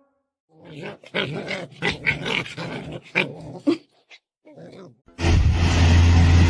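A dog making a run of short, irregular vocal sounds with brief gaps between them. About five seconds in, a loud steady rushing noise with a low hum starts suddenly and takes over.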